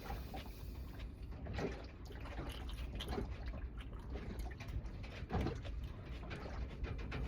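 Sounds of someone eating: irregular small clicks and soft knocks of chewing and handling food, with a few louder knocks.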